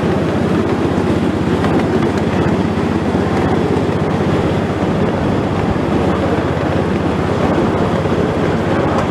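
Passenger train carriage running along the track, heard from inside the car: a steady, loud low rumble with no break.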